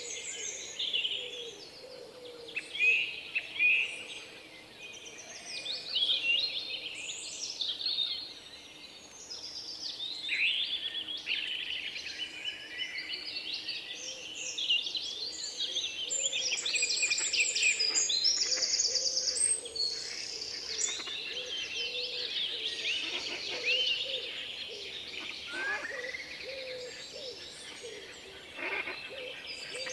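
Several songbirds singing and chirping at once, a dense chorus of overlapping trills and whistles that grows busier about halfway through.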